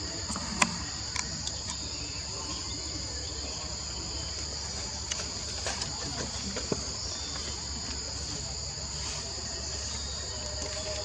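Steady, high-pitched chorus of insects trilling without a break. A few short sharp clicks sound over it, the loudest about half a second in.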